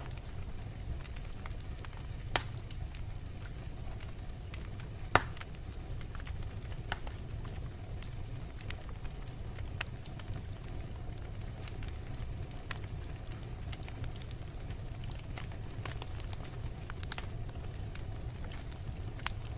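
Wood logs burning in a fireplace: a steady low rumble of flame with scattered crackles throughout, and two sharper pops about two and five seconds in, the second the loudest.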